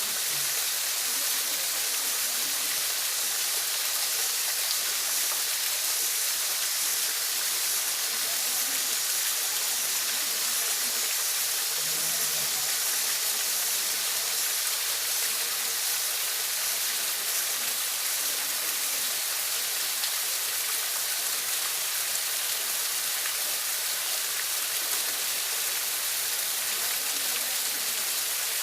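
Waterfall pouring steadily: an even, unbroken hiss of falling water, mostly in the high range.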